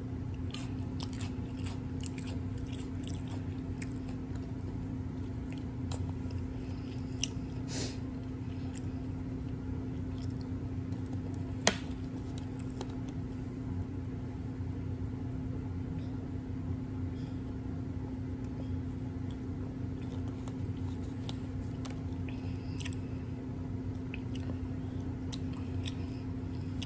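Close-up chewing and mouth sounds of a person eating grilled onion and taco filling, with scattered soft clicks and one sharp click about twelve seconds in. A steady low hum runs underneath.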